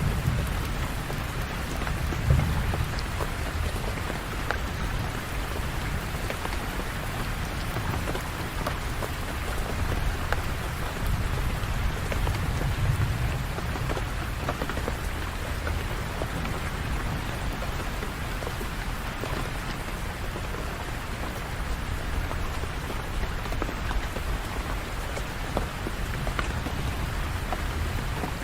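Thunderstorm: steady rain with low rolls of thunder, one fading out near the start and another swelling about ten to thirteen seconds in.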